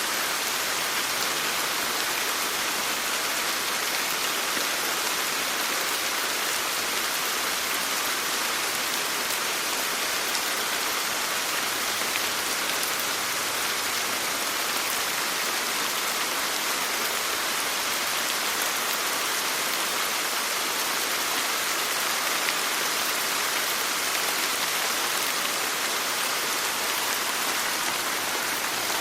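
Steady rain falling: an even hiss of drops on a surface, with faint scattered ticks of individual drops.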